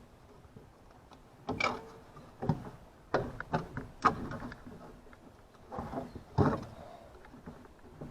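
Irregular knocks, clanks and scraping from parts and tools being handled during air-conditioner coil replacement work, a handful of separate hits with rubbing between them.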